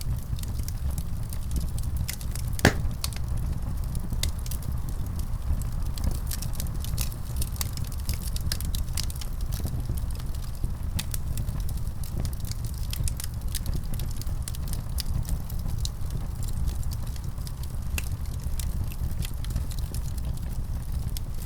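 Wood fire in a fireplace crackling, with frequent small irregular pops over a steady low rumble of the flames, and one sharper pop about three seconds in.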